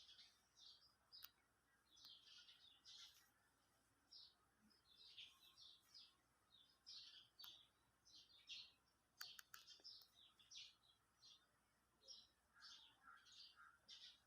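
Faint birds chirping: short high chirps in quick clusters, repeating irregularly, with a few sharp clicks about nine seconds in.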